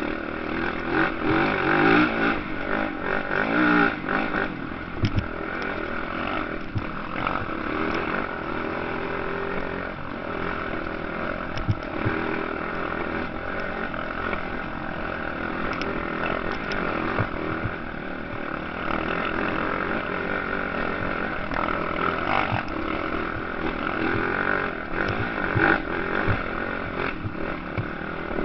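Motocross motorcycle engines running and revving, their pitch rising and falling, loudest in the first few seconds.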